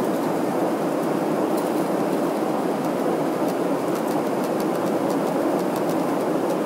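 Steady drone of an airliner cabin in flight, the engines and rushing air making an even noise, with a few faint light ticks in the second half.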